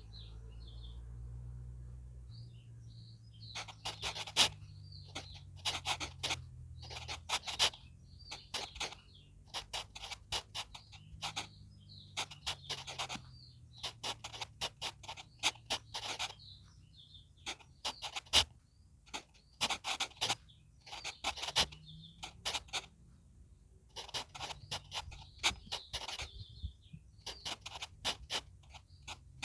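HB pencil writing on manuscript paper: quick scratchy strokes in clusters, starting a few seconds in. Birds chirp in the background.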